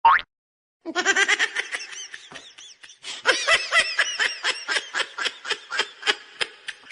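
A short rising squeal right at the start. Then, from about a second in, a person laughing in a long run of quick, breathy ha-ha pulses, a few a second.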